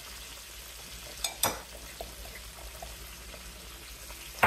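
Breaded chicken frying in a skillet of oil, a steady sizzle. Two sharp clicks a little over a second in, and another at the very end.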